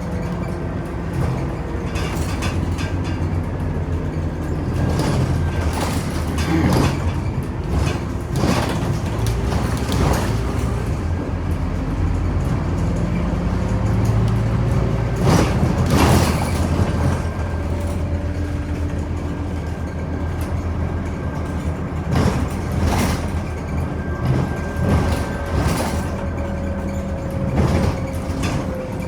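Scania Omnicity city bus heard from inside while driving: a steady engine drone with a faint whine that slowly rises and falls, and irregular knocks and rattles from the body and fittings over the road.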